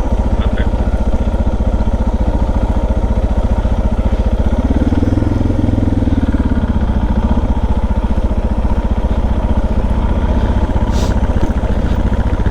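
Motorcycle engine running steadily under way, a thumping single-cylinder dual-sport note, with a brief rise in engine pitch about five seconds in before it settles back.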